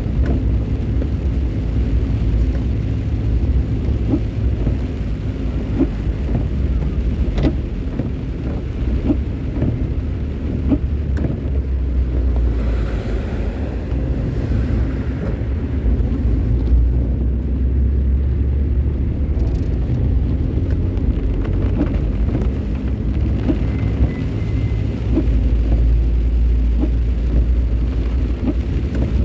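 Steady low rumble of a car being driven, engine and tyres on the road, with scattered light ticks throughout.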